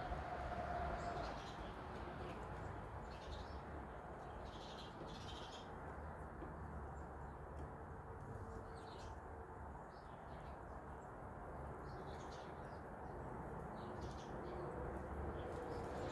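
Small birds chirping now and then, short high calls scattered through, over a steady low background rumble.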